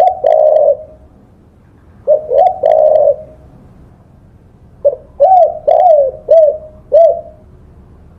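Spotted dove cooing: two short coo phrases, then a longer phrase of about five arching coos from about five seconds in.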